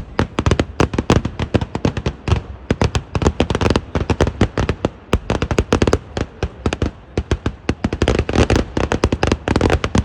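Eeduvedi firework explosions in an unbroken rapid series, several sharp bangs a second, some coming in dense clusters.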